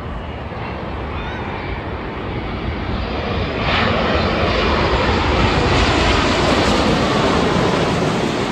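Jet engines of a Boeing 787-9 airliner on landing approach. The engine noise swells sharply about three and a half seconds in as the aircraft passes close by, then eases off slightly near the end.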